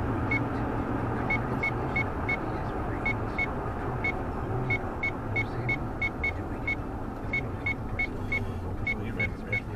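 Car on the move, with steady engine and road noise. Short, high-pitched beeps repeat about three times a second, in uneven runs with brief gaps.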